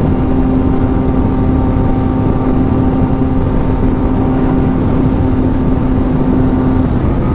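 Yamaha MT-09's three-cylinder engine running at a steady high speed through an aftermarket exhaust, under heavy wind rush. The engine note drops slightly near the end.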